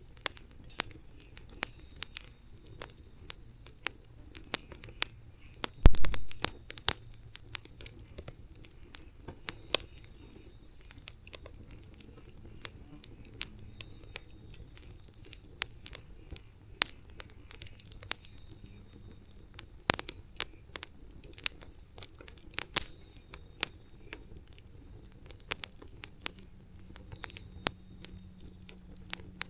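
Wood campfire crackling: irregular sharp pops and snaps, with one louder crack about six seconds in.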